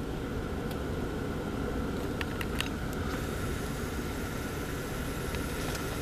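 Car engine running at low speed, heard from inside the cabin as a steady hum with a faint steady whine over it. A few light clicks come about two seconds in.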